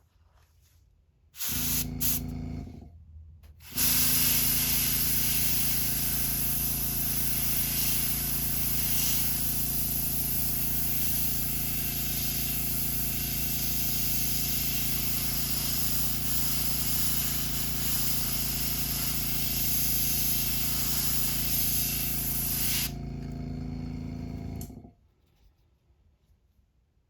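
Small airbrush compressor switches on with a steady hum, followed by two short puffs of air and then a long steady spray hiss from an airbrush laying down paint. The hiss stops and the compressor shuts off a couple of seconds later.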